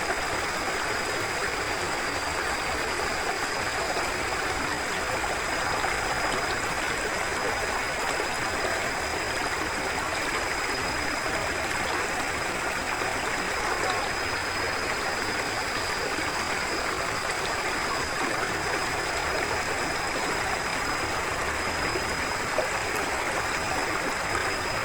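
Forest river flowing steadily: an even, unbroken rush of water.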